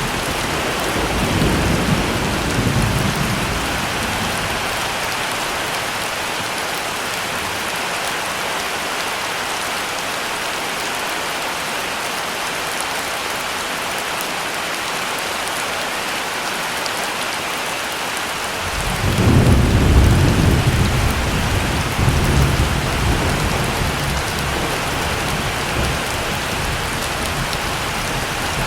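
Heavy rain falling steadily, with rolling thunder: a low rumble in the first few seconds, then a louder rumble about two-thirds of the way through that slowly dies away.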